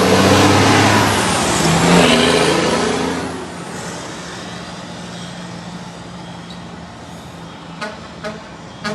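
Mack truck driving past, its diesel engine loud for the first three seconds or so and then fading to a steady low hum as it moves away.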